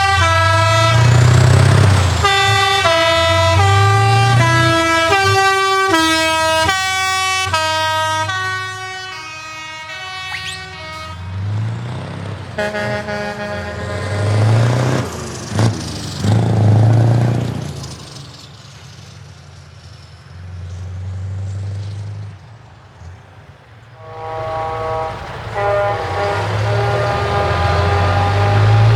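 A truck's musical air horn playing a tune in stepped notes for about the first eleven seconds. Low truck engine rumble swells and falls between the horn passages, and a second run of horn notes starts near the end.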